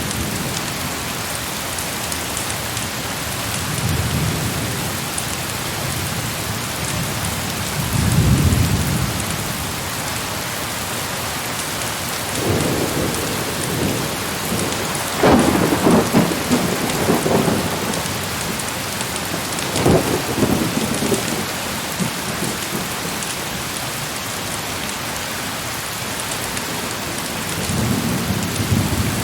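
Heavy rain falling steadily, with thunder rumbling several times. Low rolls come about four and eight seconds in, a louder, sharper rumble peaks around fifteen to seventeen seconds with another near twenty, and the thunder builds again near the end.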